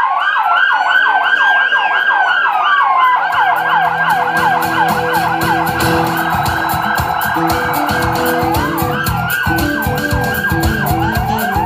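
Several emergency-vehicle sirens sounding together, a fast yelp under a slower wail that rises, falls about three seconds in and rises again near the end. From about three seconds in, a low pulsing beat joins them.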